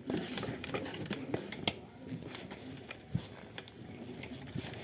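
Quiet rustling with scattered light clicks and knocks, about a dozen irregular ones, the sharpest about 1.7 s in and a low knock about 3.2 s in.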